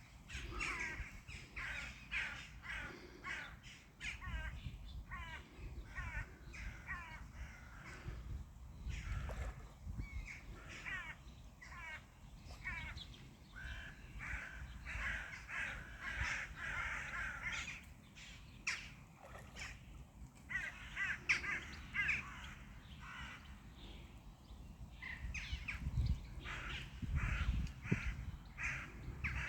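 Birds calling in quick runs of short, repeated, harsh calls, pausing now and then, over a low rumble that grows louder near the end.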